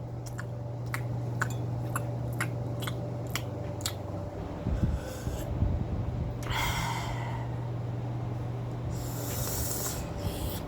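A person eating very spicy food: a run of sharp mouth clicks, about two a second, in the first four seconds, then two loud noisy breaths, about six and a half and nine seconds in, from the burn of the spice.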